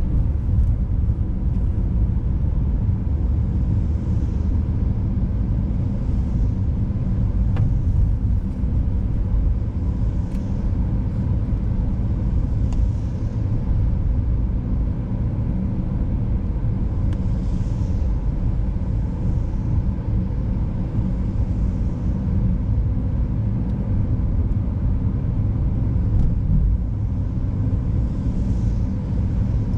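Car driving on a snow-covered, icy road: a steady low rumble of engine and tyre noise.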